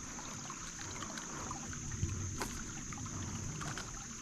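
Small creek water trickling, with a steady high-pitched hiss over it. One sharp click about two and a half seconds in.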